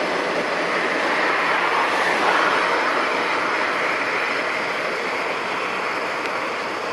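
Passenger train rolling past on the rails: a steady rushing of wheels on track.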